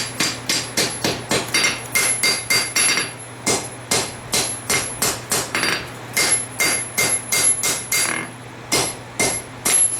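Hammer blows on hot steel at the anvil, about three a second with a ringing tone after each, reshaping the tip of a blade forged from a farrier rasp. The strikes break off briefly twice, about three seconds in and again near eight seconds.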